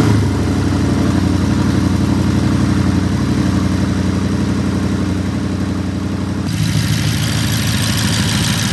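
BMW ActiveHybrid 750's 4.4-litre twin-turbo V8 idling steadily, just started. About six and a half seconds in, a hiss joins and the engine note shifts slightly.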